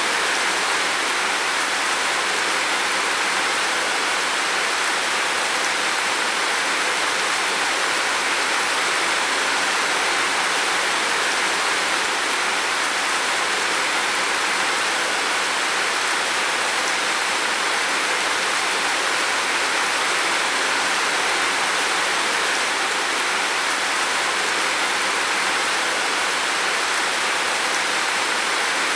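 Heavy rain falling on a roof: a dense, steady hiss with no letup.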